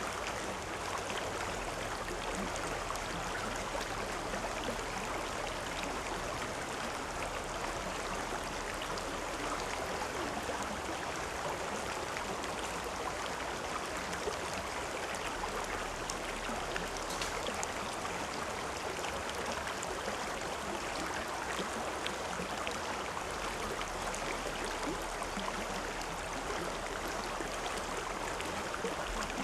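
A river or stream flowing, a steady rushing and babbling that does not change.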